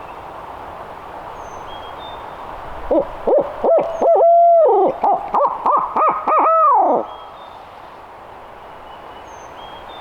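Barred owl hoot series from a turkey hunter's owl locator call, used to make a gobbler shock-gobble. It is a quick run of short hoots with two longer held notes, ending in a long hoot that falls in pitch, loud and close.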